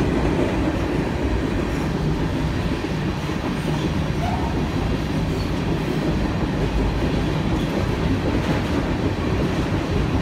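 Long train passing close by: a steady, loud rumble of wheels on rails, heavy enough to shake the ground.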